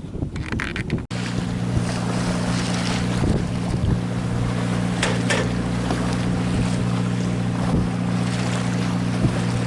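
A sailboat's inboard engine running at a steady speed while motoring, with wind on the microphone and waves washing by; it starts suddenly about a second in, after a moment of wind and water noise.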